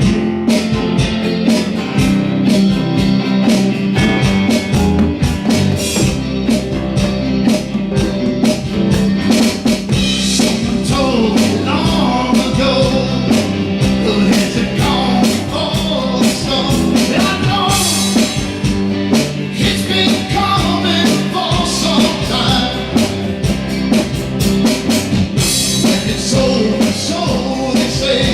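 A rock song played on drum kit and guitar with a steady beat, with singing that comes in about ten seconds in.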